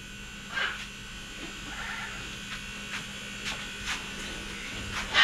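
Galahs (pink and grey cockatoos) giving a few short, sharp squawks and chirps, spaced a second or so apart, over a steady low hum.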